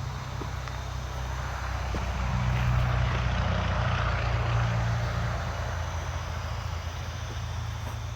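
Electric motor of a groundwater well pump humming steadily at a low, even pitch, with a rushing sound that swells louder for a couple of seconds in the middle and then eases.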